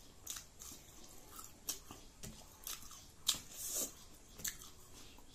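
Close-up mouth sounds of someone eating by hand: chewing with irregular wet lip smacks and clicks, the loudest a little past the middle.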